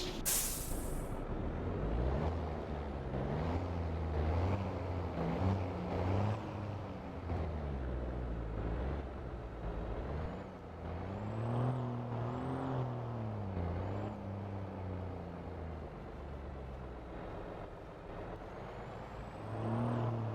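Scania V8 truck engine running, its pitch rising and falling several times as it is revved or pulls through the gears. It opens with a short sharp air hiss from the brakes.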